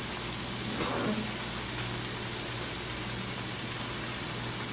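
Chicken pieces and sauce sizzling steadily in a hot wok.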